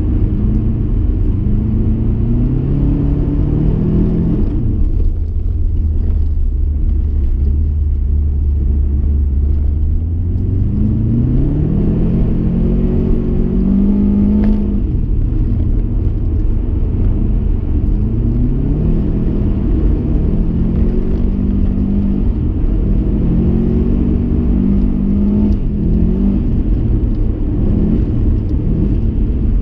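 Subaru Impreza STi's turbocharged flat-four engine heard from inside the cabin, being driven hard with the revs climbing and falling again and again through gear changes. About four seconds in the revs drop away and stay low for several seconds before climbing again.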